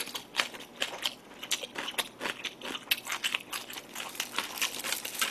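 Close-miked chewing of crunchy radish kimchi (seokbakji): irregular crunches and wet mouth clicks, several a second.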